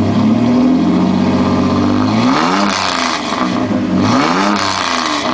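1999 Dodge Dakota's exhaust through a Flowmaster 40 Series muffler, idling for about two seconds, then revved twice, each rev rising and falling back to idle.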